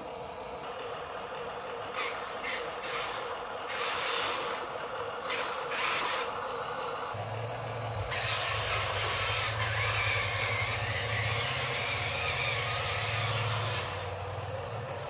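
Toy RC dump truck running: a steady whir of its small electric motor and gears, with a deeper hum joining about halfway through and stretches of hiss over it.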